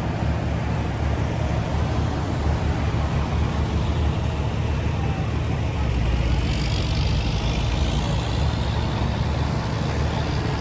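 Big-rig diesel engine idling steadily, with a faint high whine rising from about six seconds in.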